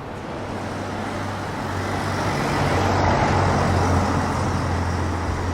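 Road traffic: a motor vehicle's steady low engine hum with tyre and street noise, growing louder towards the middle and easing slightly near the end, as of a vehicle passing.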